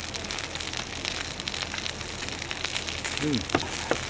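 Wood campfire crackling with many fine pops, and a short hum of a man's voice about three seconds in.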